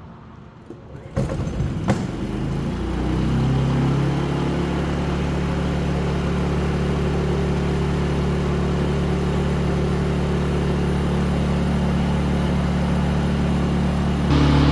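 Harbor Freight Predator 3500 generator's single-cylinder engine starting about a second in, then settling into a steady run. Its speed steps up slightly near the end.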